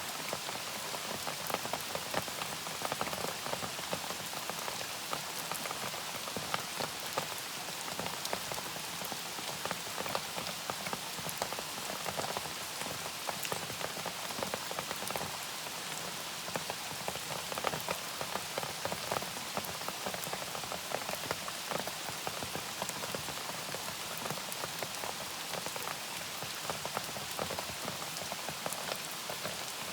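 Steady, gentle rain, with many separate drops ticking against a surface.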